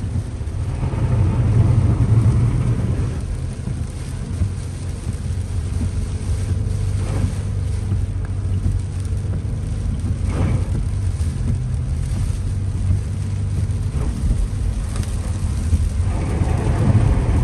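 Car interior while driving on wet roads in rain: a steady low road and engine rumble with tyre and rain hiss, swelling briefly about a second in and again near the end.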